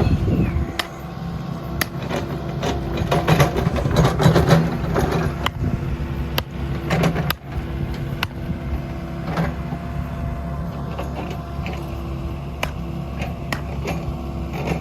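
A motor running steadily, with many sharp clicks and knocks over it; it cuts off abruptly at the end.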